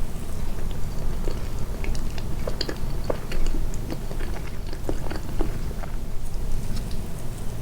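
Close-miked chewing of soft pancake-style sweets with red-bean filling: small, irregular wet mouth clicks and smacks over a steady low hum.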